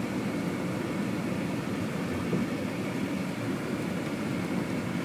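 Steady low rumble of a 2000 Audi S4 heard from inside the car, its 2.7-litre twin-turbo V6 running smoothly with no clunks or knocks.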